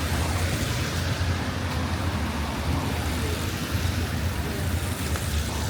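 Steady outdoor street noise: a constant low rumble under an even hiss, with no distinct events.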